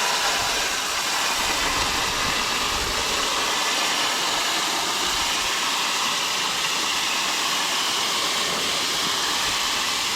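Water jetting steadily from a hose through a tractor radiator core, a continuous even hiss, flushing out the dirt that had been making the tractor overheat.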